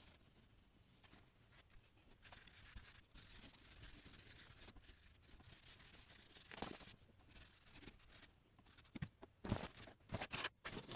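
Faint scratching of a drawing tool stroking across paper, with a few sharp taps near the end.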